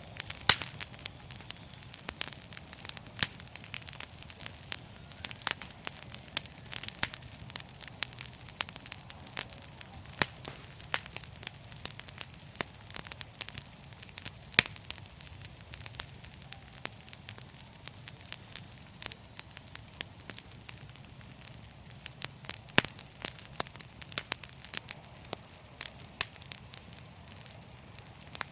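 Wood fire burning in a fireplace, with a steady low rush of flame and frequent irregular sharp crackles and pops.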